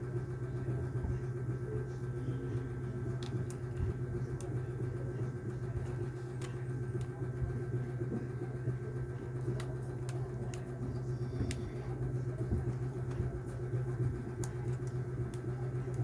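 A steady low mechanical hum with a few faint, light clicks scattered through it.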